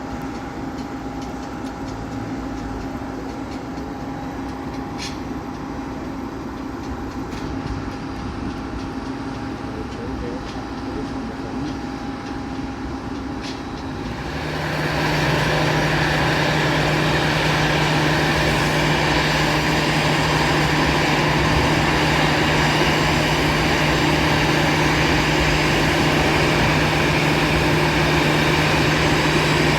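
Airbus A320 jet engines running with a steady hum. About halfway through, the sound rises within a second to a much louder, steady rush with a strong low hum.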